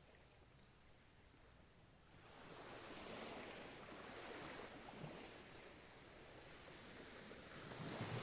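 Ocean waves washing in: a quiet lull, then a wave surges up about two seconds in and slowly recedes, with another building near the end.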